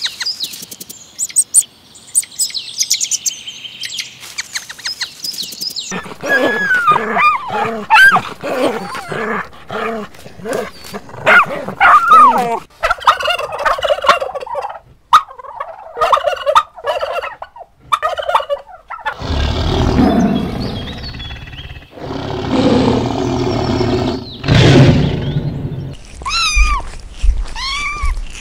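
Domestic turkey gobbling, its rapid rattling call repeated many times, after a few seconds of thin high-pitched chirping. A cat meows several times near the end.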